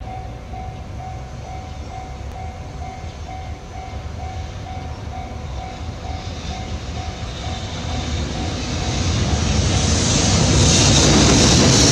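Japanese level-crossing warning bell clanging about twice a second as a freight train hauled by a JR Freight EH500 electric locomotive approaches. The train's rumble swells from about eight seconds in and drowns out the bell as the locomotive and its tank cars reach the crossing.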